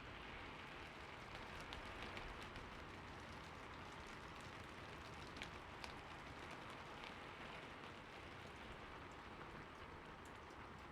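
Steady light rain falling, a soft even hiss with scattered single drops ticking sharply on a surface.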